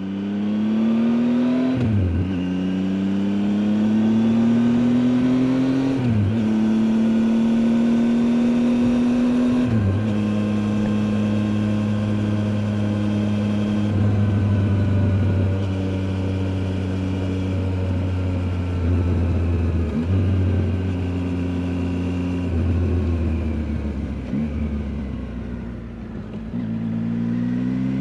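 2019 Triumph Tiger 800 XCA's three-cylinder engine pulling through the gears. Its pitch rises, then drops sharply at upshifts about two, six and ten seconds in. It then runs at a steady pitch, eases off and goes quieter near the end, and picks up again.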